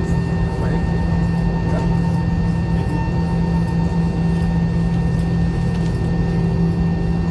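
Steady cabin hum of an Airbus airliner, a strong low drone with a few fainter steady whining tones over an even rumble, unchanging throughout.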